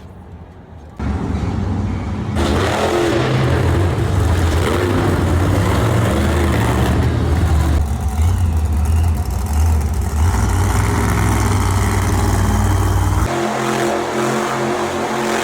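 Monster truck engines running and revving loudly, a deep rumble over a dense roar, in a string of short clips that cut in about a second in.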